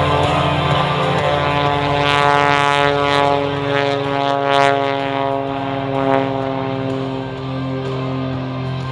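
Piston-engined aerobatic propeller plane flying past, its engine and propeller drone steady with the pitch slowly falling away.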